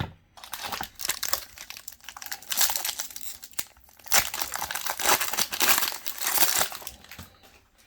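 Foil Pokémon TCG booster pack wrapper crinkling and being torn open by hand, in bouts of crackly rustling that fade near the end.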